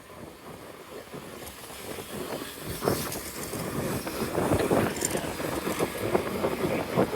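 Wind buffeting on the microphone with road and traffic noise while riding an electric scooter; it gets louder about three seconds in.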